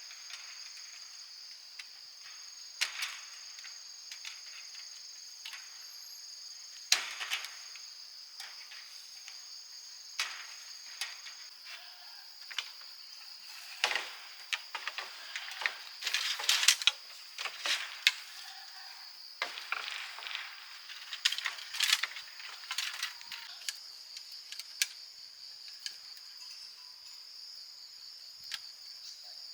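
Steady, high-pitched chirring of crickets, joined by a second, higher insect tone that stops about a third of the way in. Irregular sharp knocks and clatters come and go over it, thickest around the middle.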